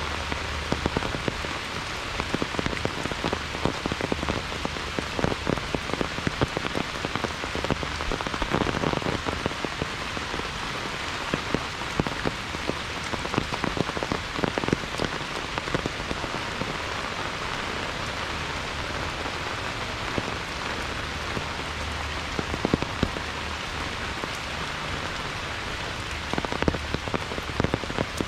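Heavy rain falling steadily, with a dense patter of close, sharp drop hits scattered throughout.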